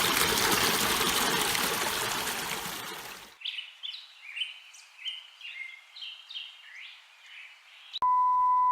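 Creek water rushing through a freshly unclogged channel, fading out about three seconds in. Then birds chirping in a quick run of short repeated calls, and near the end a steady high beep starts suddenly.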